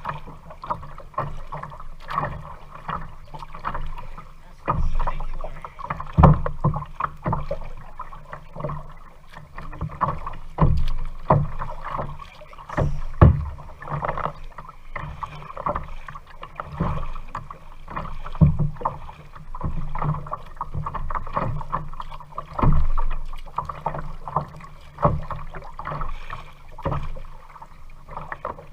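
Kayak being paddled: paddle strokes in the water, with irregular knocks and thumps every second or two.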